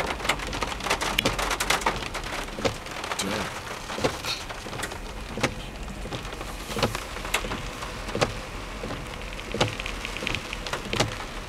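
Heavy rain pouring, with large drops hitting close by as sharp, irregular taps over a steady hiss.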